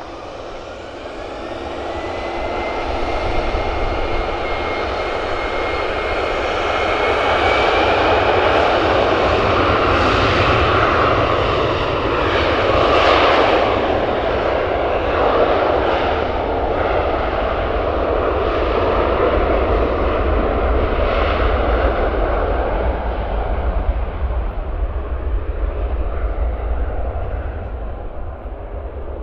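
Jet airliner's engines passing along the runway: a whine that rises over the first few seconds and then holds, over a loud rumble that builds to a peak about thirteen seconds in and fades near the end.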